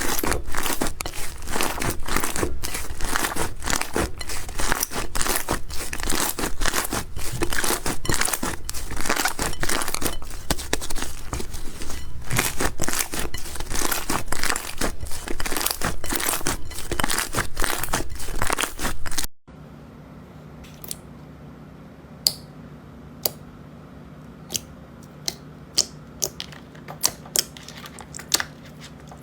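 Crunchy slime being squeezed and kneaded, giving dense crackling and popping. After a sudden cut about two-thirds through, it drops to sparse single clicks and pops over a low steady hum.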